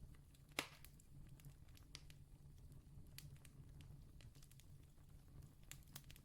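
Faint campfire crackling: irregular small snaps and ticks from burning wood, with one louder pop about half a second in, over a low steady rumble.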